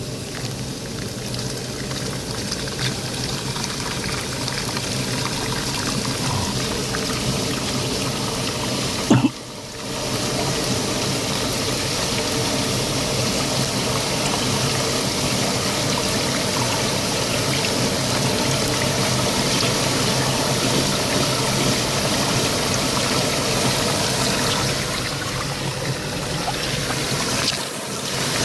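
Water pouring and running steadily, with a brief break about nine seconds in.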